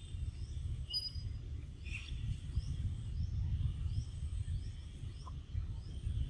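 Outdoor ambience: a low, uneven rumble, with a bird repeating a short, high, falling chirp over and over, a little faster than once a second.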